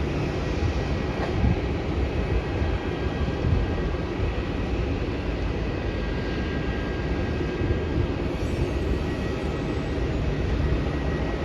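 Steady rumbling airport background noise, heaviest in the low end, with a few faint steady high tones above it.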